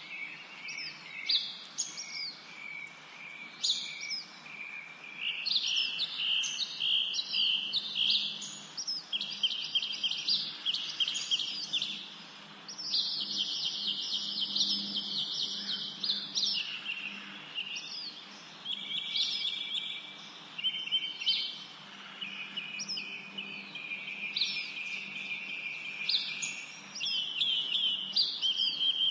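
Several birds calling and chirping continuously, with many short falling whistled notes and rapid chattering trills.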